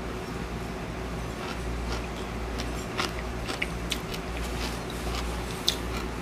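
A man chewing a mouthful of young sauerkraut that is still crunchy, with a few faint scattered crunches and clicks over a steady low hum.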